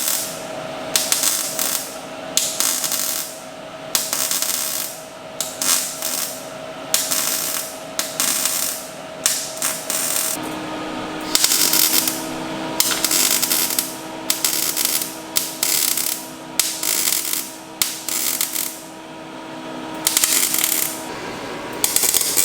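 Hand ratchet wrench being worked in repeated short runs of clicking strokes, over a steady hum that shifts pitch about halfway through.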